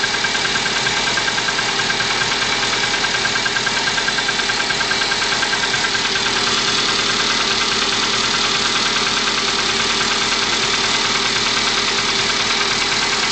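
Car engine idling with a steady, even knock and running unevenly with misfires; one of the listeners suggests new spark plugs as a cure.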